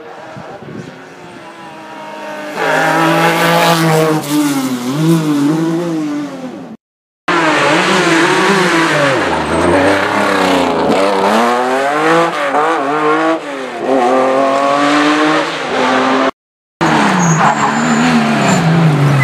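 Rally car engines revving hard, pitch climbing and dropping through gear changes and lifts, in three clips cut together. The first car starts faint and becomes loud about two and a half seconds in.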